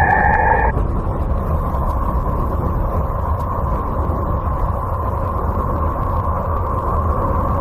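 Space-probe data converted to sound: a steady, dense rumbling noise with a faint steady tone above it. A higher pitched chord stops abruptly just under a second in.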